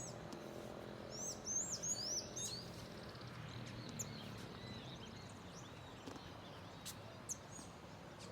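High, thin songbird chirps: a quick run of rising and falling notes about a second in, then scattered single chirps, over steady outdoor background noise.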